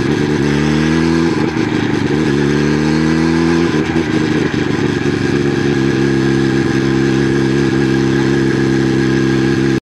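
Suzuki Hayabusa 1300 turbo's inline-four engine running as the bike is ridden, its pitch dipping and rising with the throttle for the first few seconds, then holding steady. Wind and road noise rush over the fork-mounted camera, and the sound cuts off abruptly near the end.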